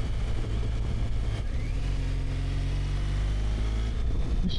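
BMW motorcycle engine running under way, steady, with its note shifting about a second and a half in.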